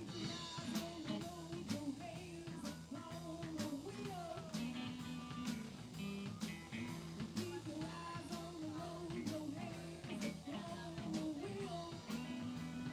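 Live band playing rock or blues, with guitar and a drum kit keeping a steady beat.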